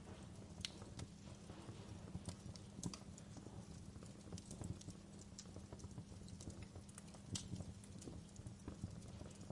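Wood fire crackling in a fireplace: irregular sharp pops over a steady low rumble of burning logs.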